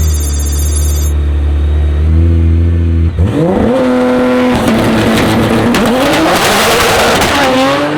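Drag car engine at a steady deep idle, then launching about three seconds in and accelerating hard down the strip. Its pitch climbs and drops back at each gear change.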